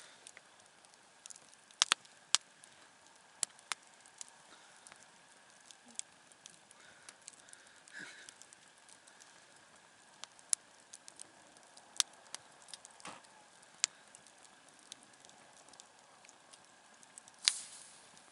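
Wood campfire crackling: irregular sharp pops and snaps over a faint steady hiss. A few louder snaps come about two seconds in, and the loudest pop comes near the end.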